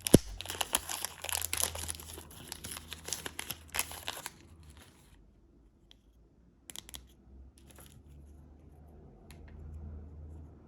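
Plastic candy wrapper being crinkled and torn open, starting with a sharp thump, for about four seconds. Then come a few brief rustles and a light tap.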